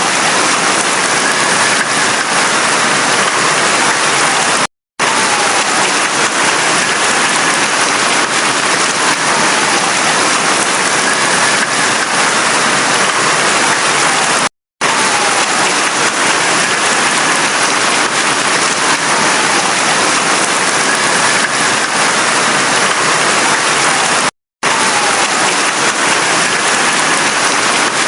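Heavy, steady rainfall, a dense even hiss of rain on surfaces. It cuts out to silence for a split second three times, about every ten seconds, and the pattern repeats at that spacing, as a looped recording does.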